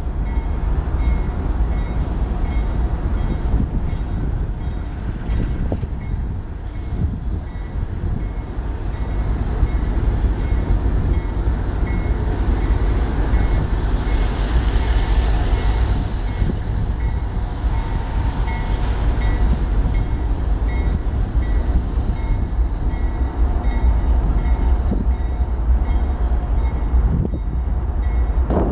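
Freight train of empty intermodal cars rolling past close by: a steady heavy rumble of wheels on rail, with a faint repeating metallic ticking. It grows a little louder midway.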